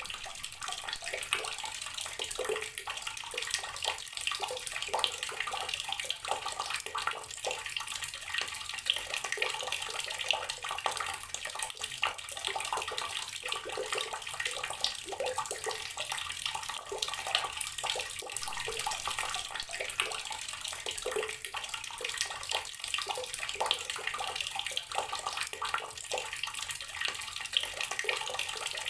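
Water running steadily from a tap and splashing into water below: an even hiss full of small plops and gurgles.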